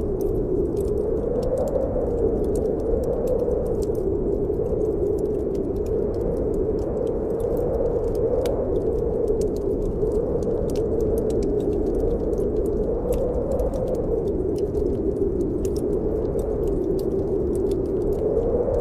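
Snowstorm wind blowing steadily with a low moan that slowly rises and falls in pitch, over a wood fire crackling with many small sharp pops.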